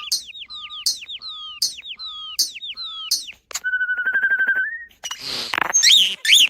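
A starling singing: a string of quick falling whistles, each followed by a short lower note, repeated four times, then a buzzy trill held on one pitch, a harsh rasp, and a couple of curving whistles near the end.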